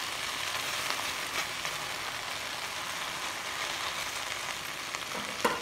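Okra frying dry in a pan, a steady sizzle, with a few light clicks and a sharper knock near the end.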